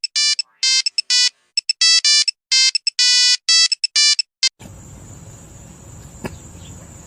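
An electronic ringtone-like melody of about a dozen short beeping notes at varying pitches, with dead silence between them. About four and a half seconds in, it gives way to background hiss with a steady high-pitched tone and a single click.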